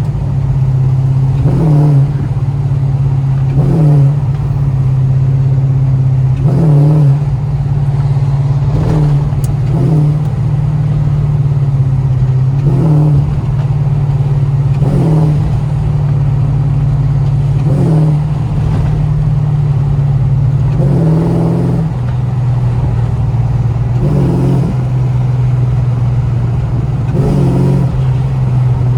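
Modified Chrysler SRT's exhaust droning steadily while driving, heard from inside the car, with brief surges every two to three seconds.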